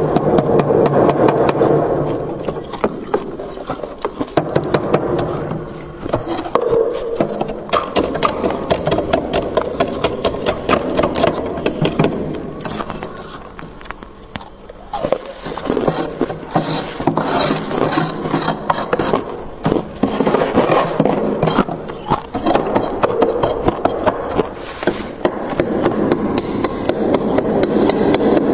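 Freezer frost ice crunching close up: a dense, gritty run of rapid crackles that eases off briefly about halfway through, then picks up again.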